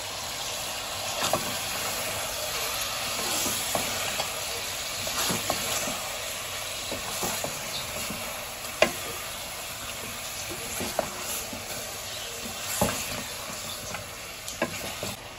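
Mutton, onions and spices sizzling in hot oil in an aluminium pot while being stirred with a wooden spoon, with scattered knocks from the stirring and one sharper knock about nine seconds in.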